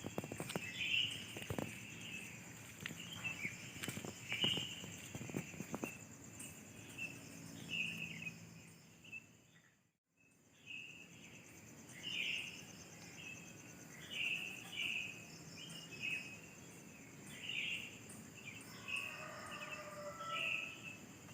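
Night insects chirping: a steady high-pitched trill under repeated short chirps about once a second. There are scattered sharp taps in the first few seconds, and the sound cuts out briefly about halfway through.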